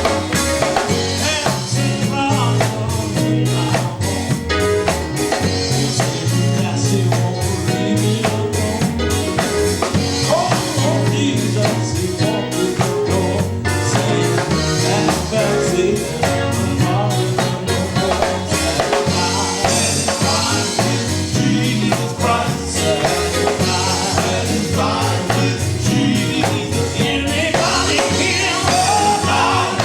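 Live gospel group singing, with lead and backing voices over a band with drum kit and bass, played at a steady beat.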